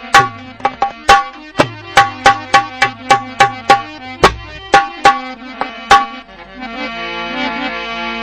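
Traditional devotional bhajan music: fast hand-drum strokes, about three a second, over a harmonium. The drumming stops about six seconds in, leaving a sustained harmonium chord.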